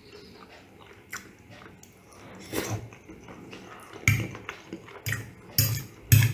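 Close-miked chewing and mouth sounds of a man eating pasta with clams: soft, wet clicks, then a run of four louder smacks from about four seconds in.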